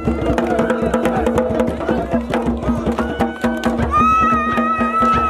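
Traditional drumming with fast, dense drum strokes under singing voices. A high held note comes in about four seconds in.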